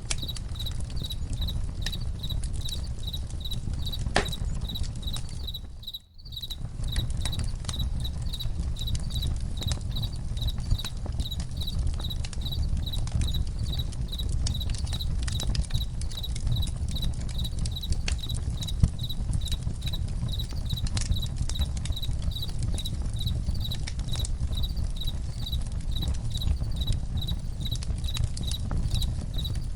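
Crickets chirping in an even high-pitched pulse, about three chirps a second, over the irregular pops and crackles of a campfire with a low rumble beneath. The whole sound drops out for a moment about six seconds in.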